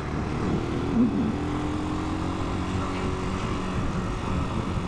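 Italika 250 motorcycle engine running at a steady cruise, with a steady hiss of wind over the microphone.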